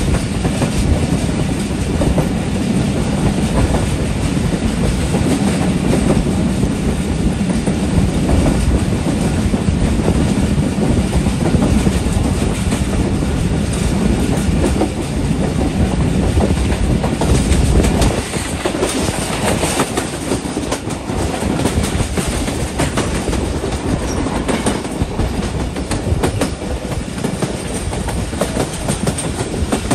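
Pakistan Railways passenger coach running along the track, wheels rumbling and clattering on the rails, heard from an open coach doorway. The deep rumble eases about eighteen seconds in.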